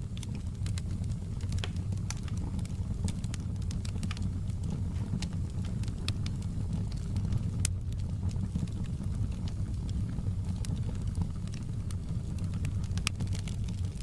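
Outdoor campfire burning with a steady low rumble and frequent sharp crackles and pops of burning wood.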